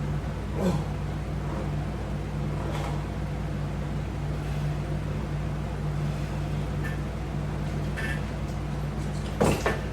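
A steady low hum, with a few light knocks scattered through it and a louder pair of knocks near the end.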